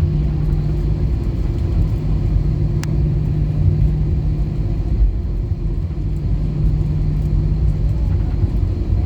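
Cabin noise inside an Airbus A320-214 with its CFM56-5B engines running at idle: a steady low rumble with a steady hum. A single short click comes about three seconds in.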